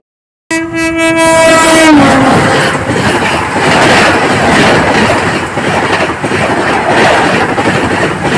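Passenger train horn blowing for about a second and a half, its pitch dropping as the train passes. Then the loud rush and clickety-clack of coaches going by close at speed.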